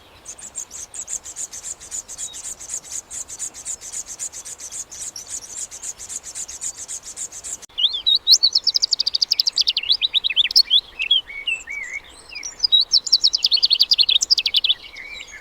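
Birds chirping. A high, rapid, continuous chatter gives way about halfway through to louder quick chirps and fast trills, broken by a short pause near the end.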